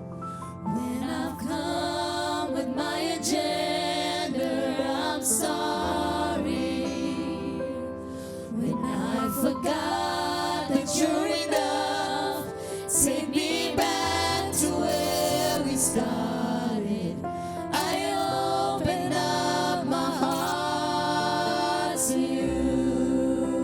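A slow gospel worship song: voices singing a melody over sustained keyboard-style accompaniment.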